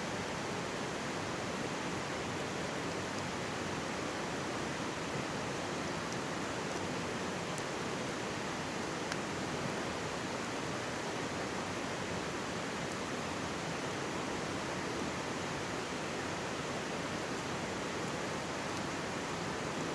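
Steady rushing and murmuring of a mountain stream, with a few faint crackles from a wood campfire here and there.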